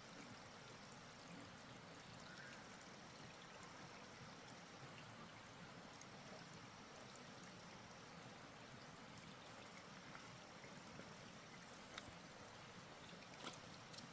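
Faint, steady running water, with a few light ticks near the end.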